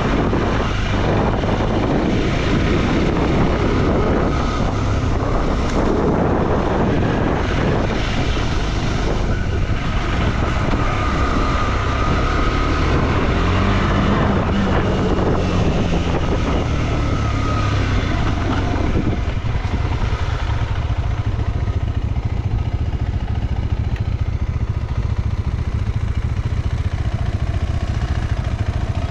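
Motorcycle engine running steadily while riding an off-road trail, with wind buffeting the microphone. The rough, gusty noise eases about two-thirds of the way through, leaving a steadier low engine rumble.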